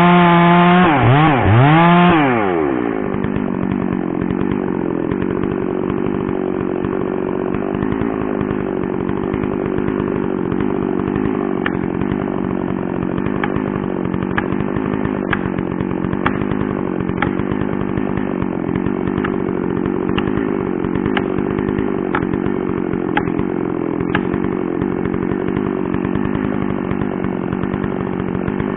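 Large two-stroke chainsaw running at full throttle while cutting into a tree trunk. For the first couple of seconds its pitch dips and wavers as it loads. Then it drops a little in level and runs steady, with scattered sharp ticks through the middle.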